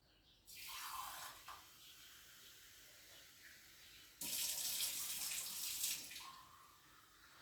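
Kitchen tap running into a sink. The water starts suddenly about half a second in, settles to a steady flow, then runs harder for about two seconds from around four seconds in before easing off.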